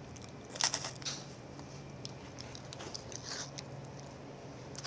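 Close-miked biting and chewing of a crunchy chocolate-filled biscuit snack: a few crisp crunches about half a second in and again around three seconds.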